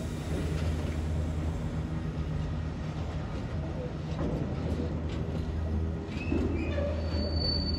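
Freight train of rail tank wagons rolling slowly past, the wheels giving a steady low rumble on the track.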